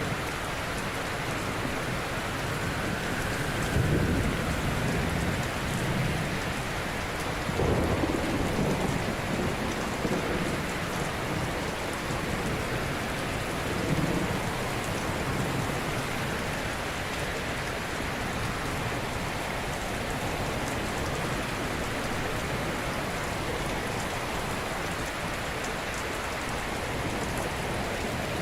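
Ocean surf: a steady hiss of breaking waves, with deeper, louder wave crashes swelling up about four, eight and fourteen seconds in, then a more even wash.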